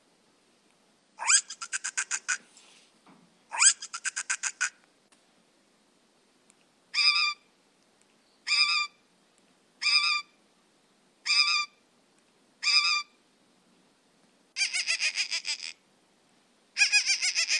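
A bird calling: two rapid trills of about a second each, then five short calls spaced about a second and a half apart, then two longer rapid trills near the end.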